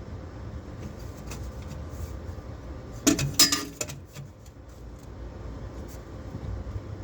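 Metal tools or parts clinking and rattling together in a short burst about three seconds in, over a steady low rumble.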